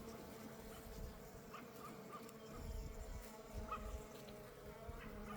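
Honeybees buzzing around an opened hive: a faint, steady hum at several pitches at once.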